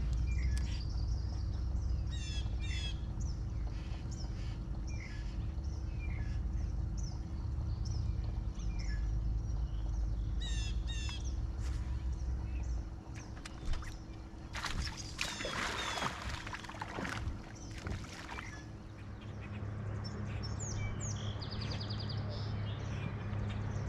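Small birds chirping repeatedly in short falling calls over a steady low rumble. About fifteen seconds in there is a brief, louder rush of noise.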